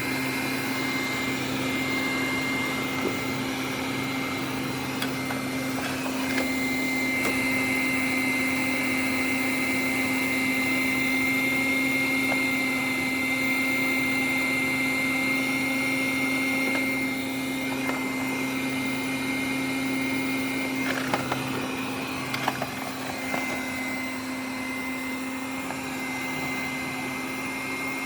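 Robot vacuum cleaner running: a steady motor hum with a high whine, and a few light knocks about 21 to 23 seconds in.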